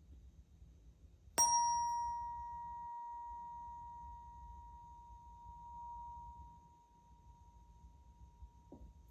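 A 963 Hz solfeggio tuning fork is struck once, about a second and a half in. It rings a steady pure tone that slowly fades, while its high overtones die away within a second. A faint tap comes near the end.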